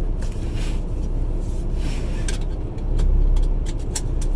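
Semi truck's diesel engine idling with a steady low rumble, heard from inside the cab, swelling briefly about three seconds in. Several sharp clicks and taps come in the second half.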